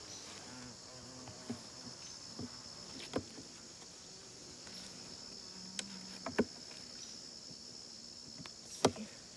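Steady high-pitched trilling of insects, with a faint low hum of honeybees inside the opened hive. Sharp knocks break in about three, six and a half and nine seconds in.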